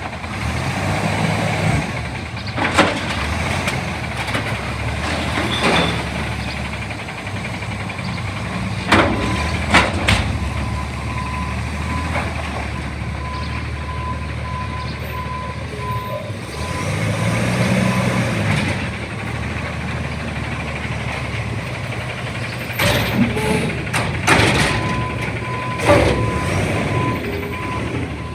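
CNG Autocar Xpeditor ACX Heil front-loader garbage truck working: its engine runs steadily and revs up briefly about two-thirds of the way in. Its reversing alarm beeps in two spells, one in the middle and one near the end. Sharp metal clanks come now and then, and air brakes hiss.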